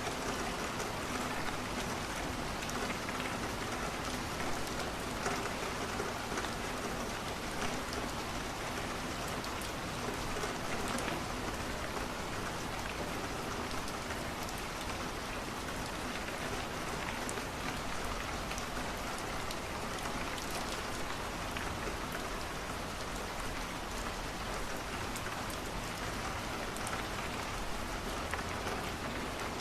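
Steady rain falling, with many small scattered ticks of drops striking a surface.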